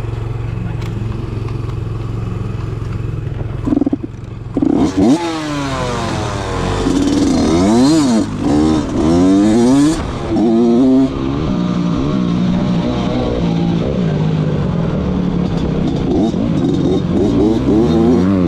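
Dirt bike engine idling steadily, with a couple of short loud bumps about four seconds in. From about five seconds in it is revved up and down again and again, its pitch rising and falling.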